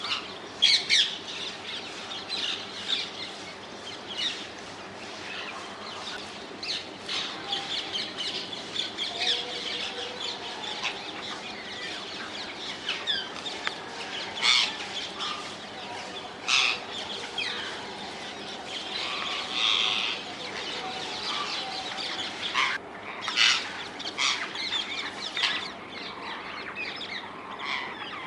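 A flock of rose-ringed parakeets (Indian ringneck parrots) calling: many short, harsh, high-pitched screeches, overlapping and irregular, with a few louder calls standing out.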